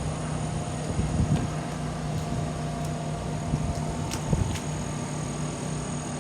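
A steady mechanical hum holding a fixed pitch, with a few low bumps about a second in and again a little after four seconds.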